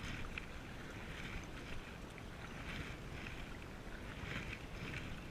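Wind rumbling on the microphone over a canoe on the water, with soft swishes of paddle water about every second and a half as the paddlers pull the boat sideways with draw strokes.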